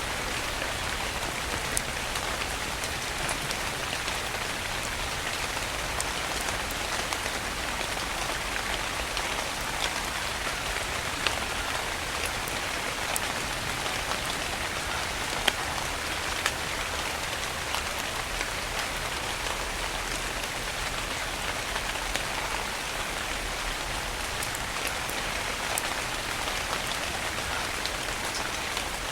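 Steady rain falling, an even hiss of many drops, with a few sharper individual drop hits standing out now and then.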